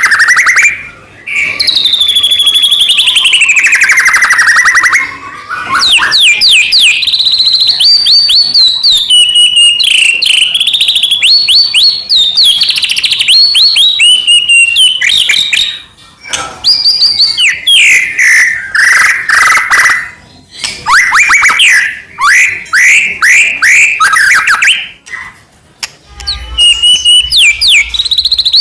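White-rumped shama (murai batu) in full, continuous song: long varied phrases of loud whistled glides and rapid runs of quick sweeping chirps and trills, broken by brief pauses.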